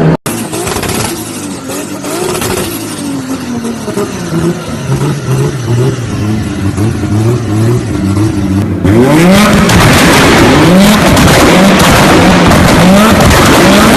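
Car engine revving up and down with its exhaust popping and crackling. About nine seconds in, it becomes much louder, with rising revs and dense crackles.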